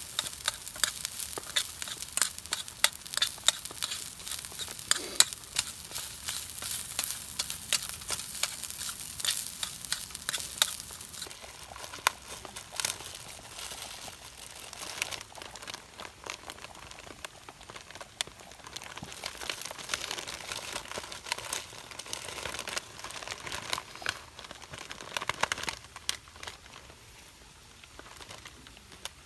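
Food sizzling and crackling in a frying pan, with dense sputtering pops that thin out and grow quieter in the second half.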